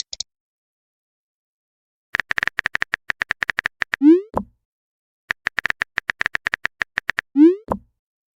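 Phone keyboard typing clicks in two quick runs, each ending in a short rising swoosh, the sound of a message being sent.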